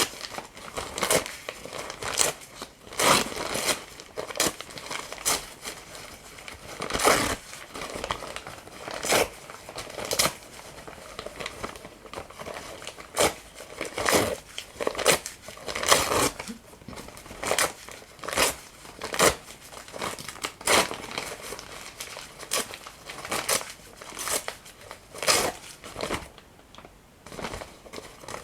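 Paper crinkling and tearing in short, irregular strokes, roughly one a second.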